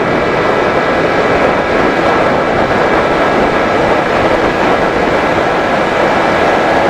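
Small electric RC FPV plane in flight: a steady motor and propeller whine at constant throttle over a loud, even rushing noise.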